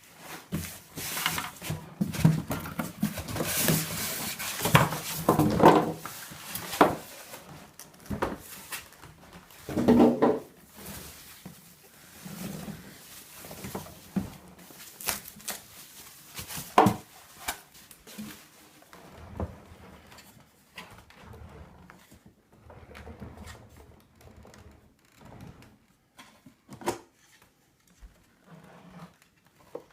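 Plastic vacuum-cleaner parts and packaging being handled: irregular clicks, knocks and rustling, busiest in the first half and sparser after about two-thirds of the way through.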